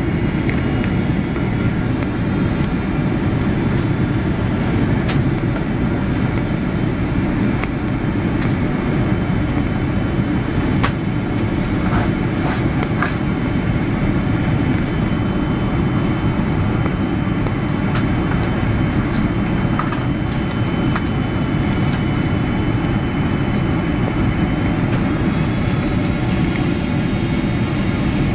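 Steady, loud low rumble heard inside the cabin of a Boeing 777-300ER airliner, with a few faint light clicks.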